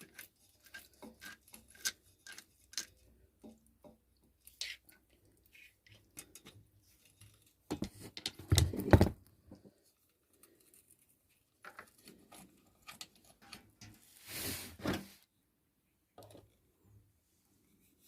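Workshop handling sounds on a motorcycle: a scatter of light metallic clicks and taps from tools and parts, with two louder clunks, one about eight and a half seconds in and one about fourteen and a half seconds in.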